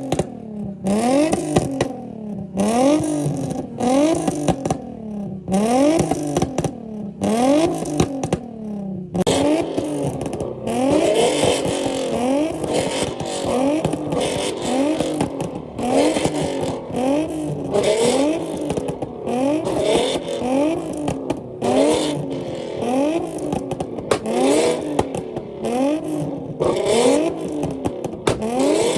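Car engine being revved hard over and over, the pitch climbing and dropping back about every second. About nine seconds in, a second car's revving joins and overlaps it.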